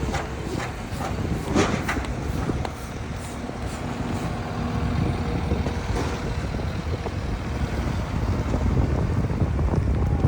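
Wind buffeting the microphone: a steady low rumble with a few brief crackles about one to two seconds in.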